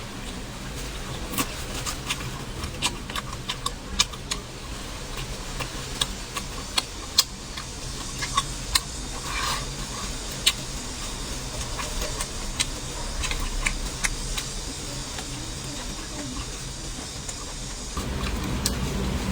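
Close-miked eating sounds: chewing twice-cooked pork, with scattered sharp clicks and smacks at irregular moments, over a steady low hum.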